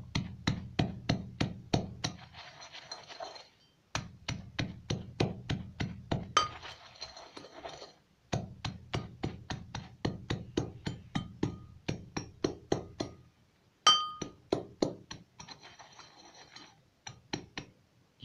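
Pestle pounding in a mortar to crush hard pieces fine, in quick rhythmic runs of about four to five clinking strikes a second. It pauses briefly three times, and now and then a strike rings.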